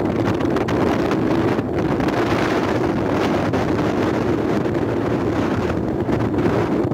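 Strong desert windstorm wind buffeting the microphone in a steady, loud rush.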